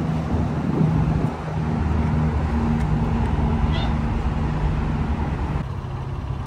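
Jaguar F-Type's engine running at low revs while the car is reversed slowly down off a trailer, a steady low hum that eases off near the end.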